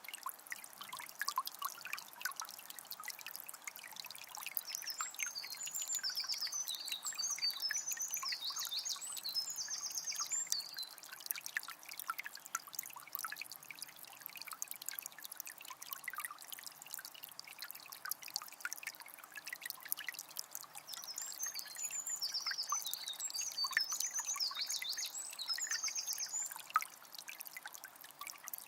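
Small spring trickling and splashing steadily. A songbird sings a high, rapid phrase twice, about five seconds in and again about twenty seconds in.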